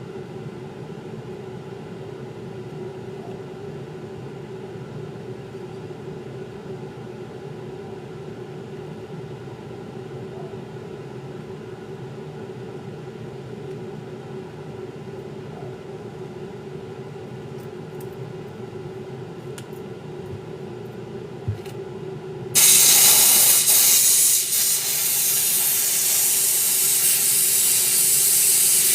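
A steady low hum, then about three quarters of the way through a sudden loud, continuous hiss of a pressurised jet starts and keeps going, as from a spray or steam nozzle used on the shoes.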